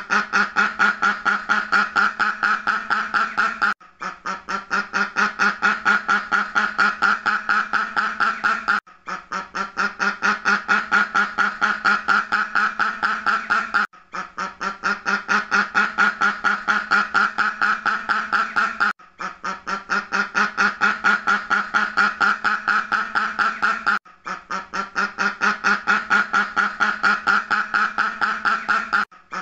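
Duck quacking in a fast, even series of about five quacks a second. The same stretch of about five seconds repeats over and over with a brief break between repeats, a looped sound-effect recording.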